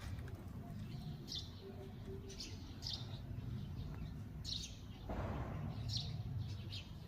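Wild birds calling outside with short, high chirps, one every second or so. A brief rustling noise comes about five seconds in.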